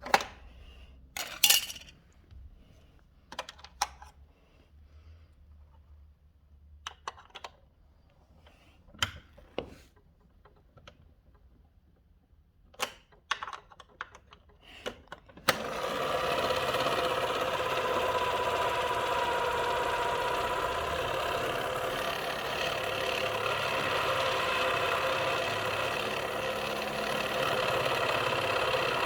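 Vintage 1960s PIKO Automat toy washing machine: a scattering of clicks and knocks, then about halfway through its small motor starts suddenly and runs steadily with an even whirring hum.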